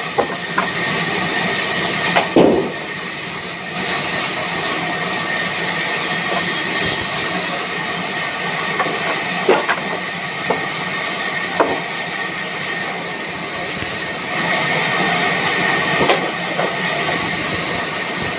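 Sawmill band saw running and cutting through wood: a steady loud mechanical noise with a high hiss that swells and fades in stretches, and a few sharp knocks.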